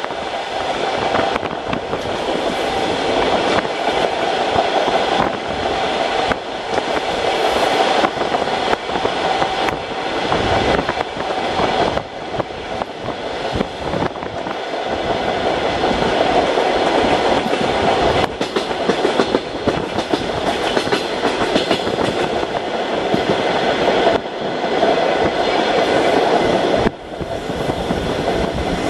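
Suburban train running on the line, heard from inside the carriage: a steady rumble of wheels on rails with frequent clicks and clatter.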